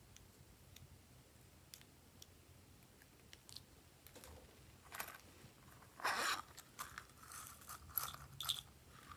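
Glossy slime being squished and worked by hand, giving sticky crackles and pops: a few faint clicks at first, then busier popping from about four seconds in, loudest around six and eight seconds in.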